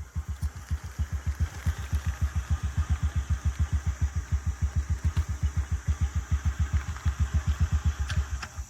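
A small engine idling with an even low thumping, about seven to eight beats a second, holding steady and then cutting off suddenly at the end.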